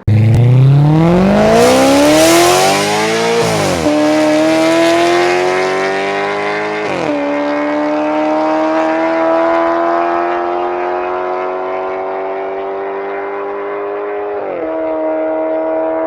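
Maserati GranTurismo 4.2 V8 through a straight-piped exhaust, accelerating hard with the automatic gearbox shifting up: the revs climb steeply, then drop about four seconds in and again about seven seconds in. After that the engine pulls with slowly rising revs, and near the end the revs dip briefly and come back higher.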